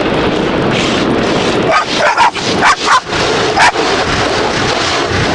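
Automatic car wash spraying and scrubbing the car, a steady loud rush heard from inside the cabin. A dog gives a few short barks and yelps about two to four seconds in.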